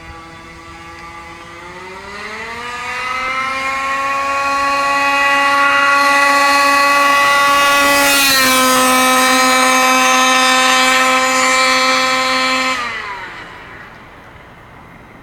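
Losi 5ive-T's 36cc Rovan two-stroke petrol engine at full throttle on a speed run, its pitch rising over about three seconds to a high, steady whine. The pitch drops a step about eight seconds in, and the sound then falls away sharply as the throttle comes off near the end.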